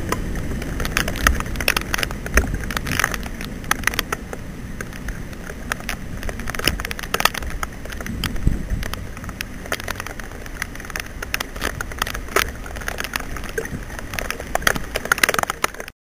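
Long freight train of covered hoppers rolling past, a steady low rumble with irregular clicks and rattles from the wheels and cars. The sound cuts off abruptly near the end.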